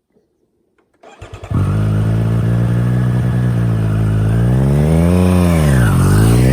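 2020 Triumph Street Triple RS 765's three-cylinder engine running through its standard exhaust with both catalytic converters removed, as the bike rides by. It comes in suddenly about a second in and holds a steady note, then climbs in pitch, drops sharply about five seconds in, and climbs again.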